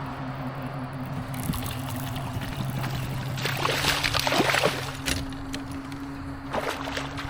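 Newport NK180HD electric kayak motor humming steadily. Water splashes and trickles for about a second and a half in the middle.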